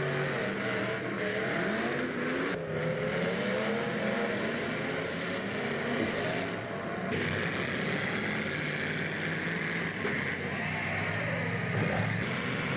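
Full-size demolition derby cars' engines revving, their pitch rising and falling, over a steady rumble of running engines. The sound changes abruptly twice, a few seconds in and again about seven seconds in.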